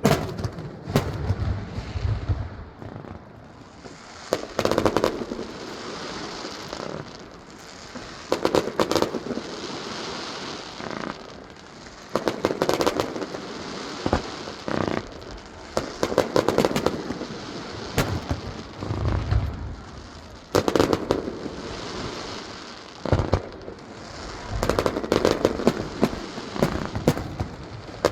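Aerial fireworks display: repeated sharp bangs of shells bursting, with crackling shells and a sizzling tail after each burst. Bursts come in clusters every few seconds.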